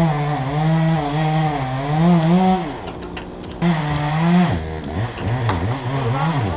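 Small two-stroke chainsaw engine running at high revs, its pitch wavering and dipping again and again. The engine note falls away briefly about halfway through, then picks straight back up.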